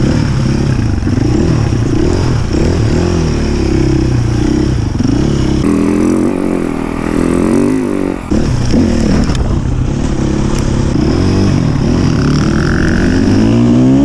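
Off-road enduro dirt bike engine being ridden, its revs rising and falling over and over as the throttle is worked on the trail.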